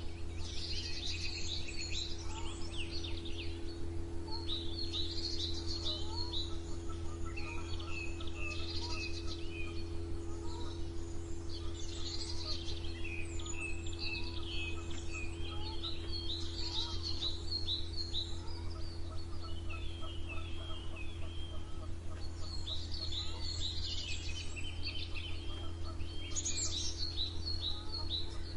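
Several songbirds chirping and trilling over one another in a continuous morning chorus, over a steady low hum.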